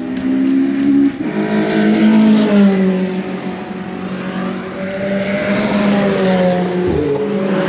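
Performance cars' engines at speed on a race circuit as they pass, the engine note rising and falling with gear changes and throttle.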